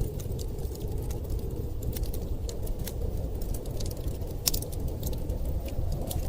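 Wood fire crackling in a fireplace, with irregular sharp pops and snaps, one louder pop about two-thirds of the way through, over a steady low rumble of blizzard wind.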